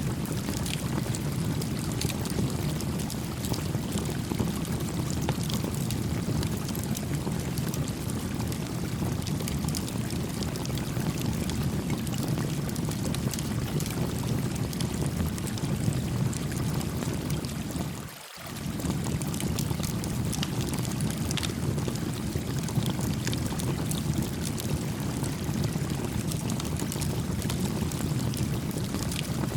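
Small campfire crackling beside a gently flowing brook. A steady low rush of running water carries scattered sharp crackles and pops from the fire, and the sound drops away for a moment about two-thirds of the way through.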